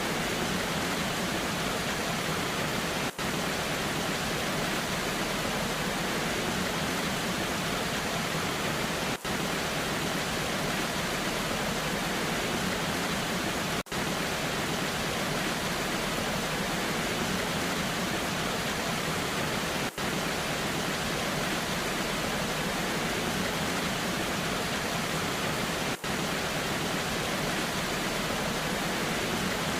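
A waterfall rushing in the rain: a steady, even hiss of falling water, broken by a brief dropout about every six seconds.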